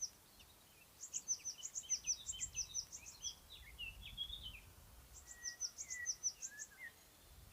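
Songbirds singing: a rapid run of high, thin chirps starting about a second in and another near six seconds, with a second bird's lower whistled notes between and after them.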